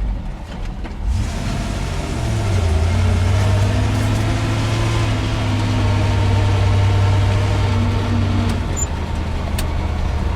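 1982 Chevrolet C30 truck's 5.7-litre small-block V8 pulling the truck along. The engine speed rises about a second in, holds steady, then eases off near the end.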